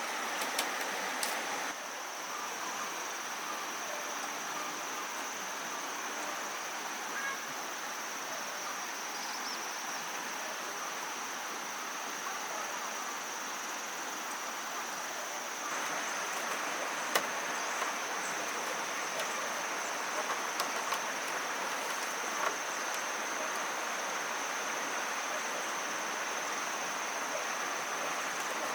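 Steady high-pitched drone of insects, crickets or cicadas, over outdoor background noise, with a few scattered sharp knocks.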